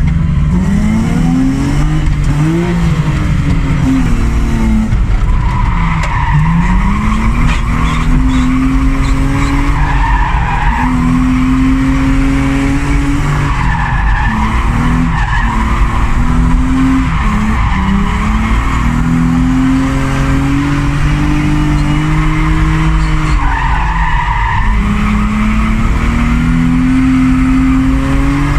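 A Mercedes W202 2.8 drift car heard from inside the cabin. The engine revs up and falls back over and over as the car drifts, and the tyres squeal in several stretches.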